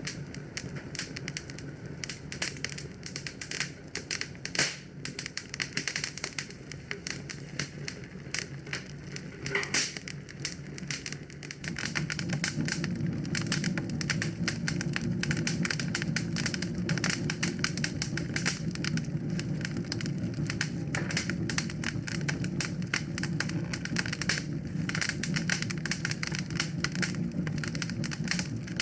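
Wood fire crackling, dense sharp pops and snaps throughout. A low steady rumble beneath grows louder about a third of the way in.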